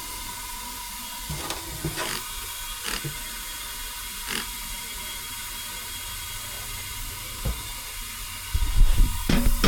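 Steady air hiss with a few light knocks, then a run of loud heavy clunks near the end, typical of a welded exhaust downpipe being handled during a pressure test.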